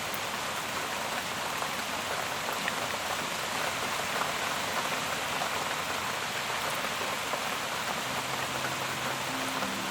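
Steady rain falling, an even hiss with scattered drop ticks. Soft low music notes come in near the end.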